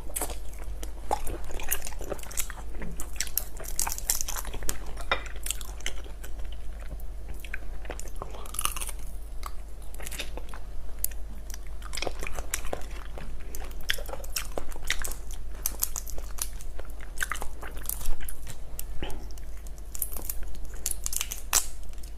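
Close-miked chewing and biting of raw shrimp, with many short crunches and crackles as the flesh and shell are bitten.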